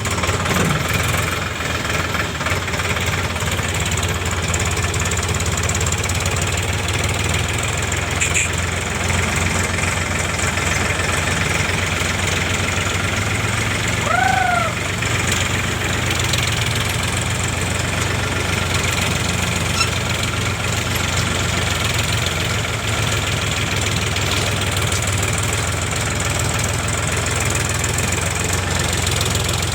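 Powertrac 439 Plus tractor's diesel engine running steadily at a low, even beat. A short high squeak is heard about halfway through.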